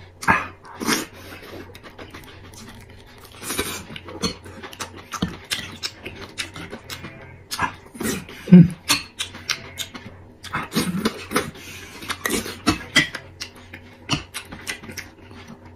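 A person chewing roasted pig tongue close to the microphone: wet, irregular chewing and lip-smacking mouth noises, with a few short low throat sounds, the loudest about halfway through.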